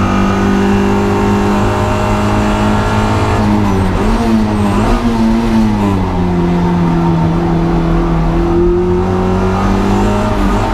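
Honda Integra DC2's engine running hard at high revs on a race track. Its pitch holds steady, wavers and drops about four to six seconds in, then holds steady again a little lower.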